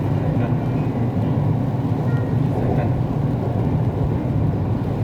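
Siemens Inspiro metro train running between stations, heard from inside the car: a steady low rumble of wheels on rail and running gear.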